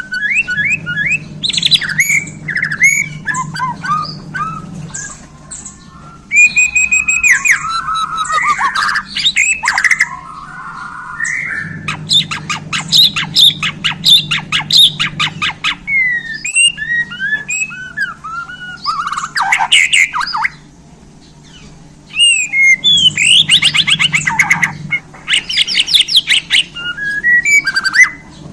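White-rumped shama (Bornean murai batu) singing loudly: clear whistled phrases and gliding notes mixed with fast rattling trills and imitated calls of other birds, in bursts with a pause of about two seconds near the middle.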